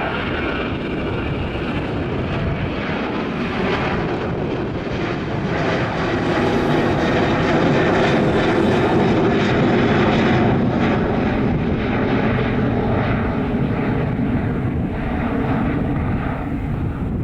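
Airliner's engines passing close, swelling to a peak about halfway through and then easing off.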